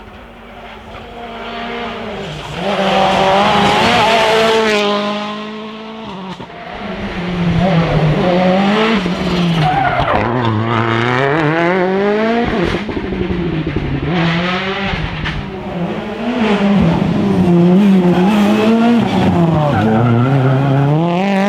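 Rally car engine driven hard, its pitch climbing and dropping over and over as it revs up through the gears and comes off the throttle. It is loudest about three to five seconds in, dips briefly, then revs almost without a break to the end.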